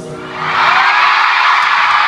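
Concert crowd of fans screaming and cheering, swelling up loud about half a second in, over the band's music, which carries on underneath.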